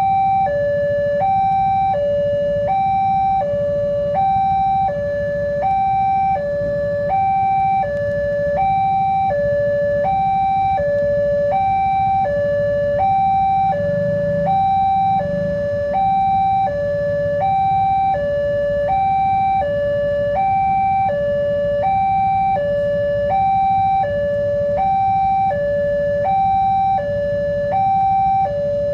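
Electronic warning alarm of a railway level crossing, sounding a steady two-tone high-low signal that alternates about every two-thirds of a second, the sign that the barriers are down for an approaching train. A low rumble runs beneath it.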